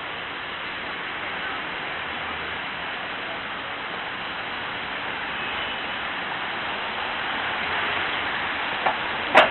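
Steady city street traffic noise, an even hiss of passing vehicles that grows a little louder toward the end. Two sharp clicks or knocks come near the end, the second the loudest sound.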